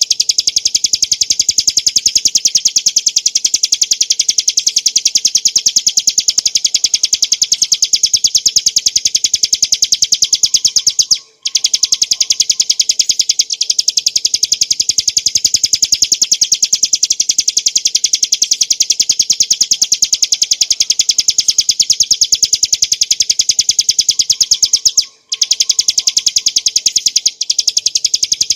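Bar-winged prinia (ciblek gunung) singing a continuous, rapid string of high, sharp chirping notes. The song breaks off briefly twice, about 11 and 25 seconds in.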